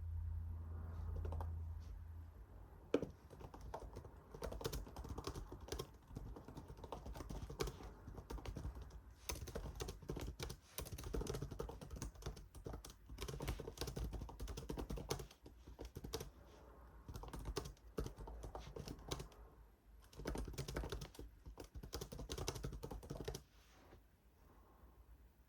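Typing on a computer keyboard: runs of quick key clicks with short pauses between them, starting about three seconds in and stopping shortly before the end.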